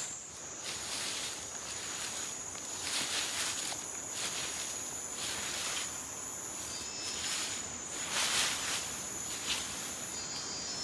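An insect trilling steadily at a high pitch, with irregular rustling sounds every second or so over it.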